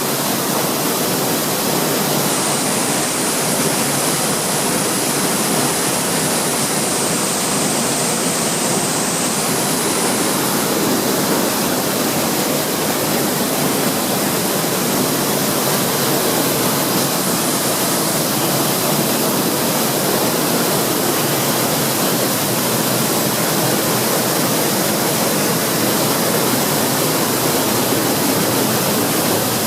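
Waterfall close by: the steady rush of falling water, near enough that its mist drifts over.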